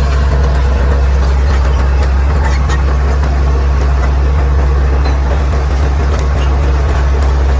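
Caterpillar D6R XL bulldozer's diesel engine running at a steady, even pitch as a deep drone, with a few faint clicks over it.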